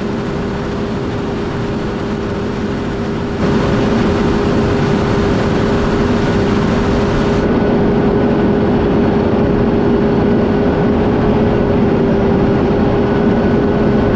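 Fendt 716 Vario tractor's diesel engine running steadily with a constant hum; it gets louder about three and a half seconds in.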